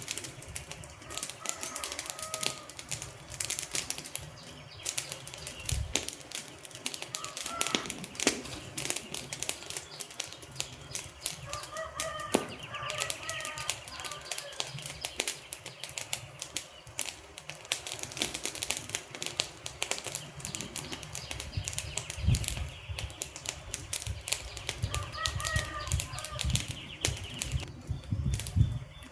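Wood fire burning, with dense, irregular crackles and pops from the logs. A few short bird chirps come through, around a dozen seconds in and again near the end.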